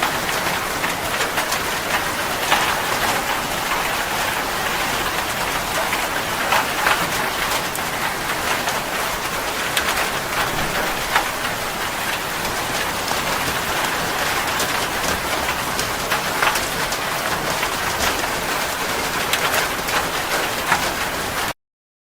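Steady rain, with individual drops striking a surface among the even hiss of the downpour. It cuts off suddenly near the end.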